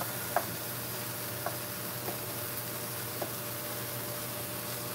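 Squash pieces and tomato frying in a pan with a steady low sizzle, and a few light knocks of a wooden spoon as the vegetables are stirred.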